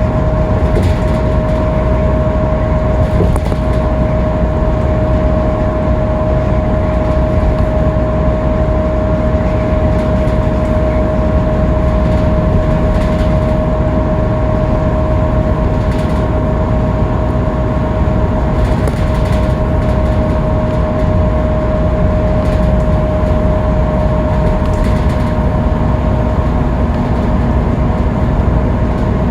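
Interior noise of a Scania K310UB city bus cruising at freeway speed: a steady drone of engine and road noise with a constant high whine running through it.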